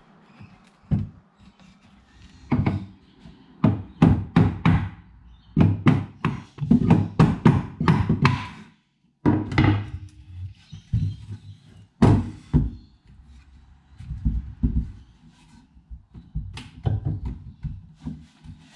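Irregular wooden knocks and thunks, often several in quick succession, from an old wooden chair being knocked on and handled during its repair.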